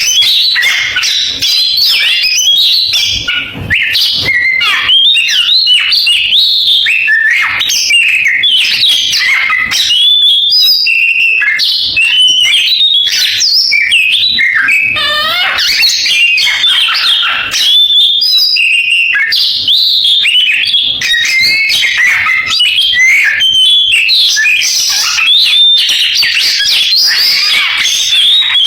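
Caged oriental magpie-robin (kacer) singing loudly and without pause: a rapid, ever-changing run of whistles, chirps and sliding notes.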